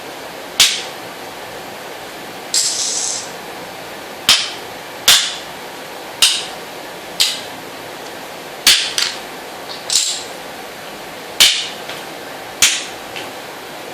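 Checkers pieces being moved and set down on a board: about a dozen sharp clacks at uneven intervals, with one longer scraping sound about two and a half seconds in.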